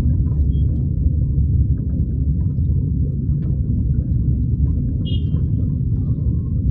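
Toyota Axio driving through city traffic, a steady low rumble of road and engine noise heard from inside the car. One short high-pitched chirp sounds about five seconds in.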